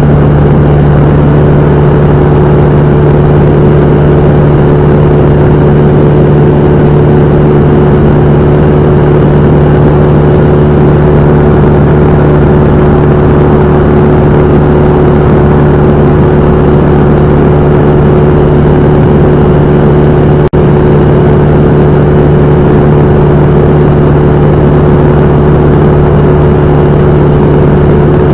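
Cessna 172M's four-cylinder Lycoming O-320 engine and propeller running with a steady, unchanging drone. There is a momentary drop-out about twenty seconds in.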